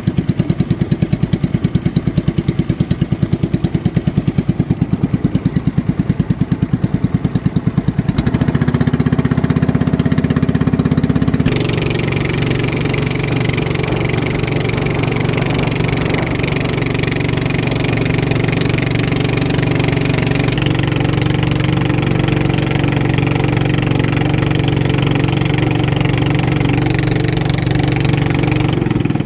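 Racing boat motors running loudly and steadily, with a fast even pulsing in the first part; the sound changes abruptly about 8, 12 and 21 seconds in.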